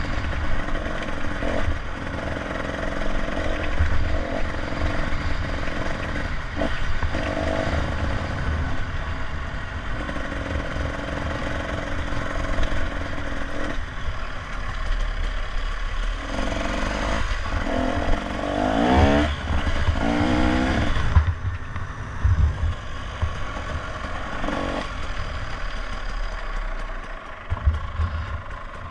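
Motorcycle engine running on a ride, under a steady rush of road and wind noise. About two-thirds of the way through, the engine revs rise and fall for a few seconds.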